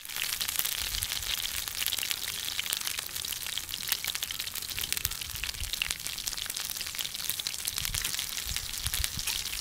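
Batter-coated cauliflower florets (gobi pakora) deep-frying in hot oil in a pan, a steady sizzle thick with fine crackles.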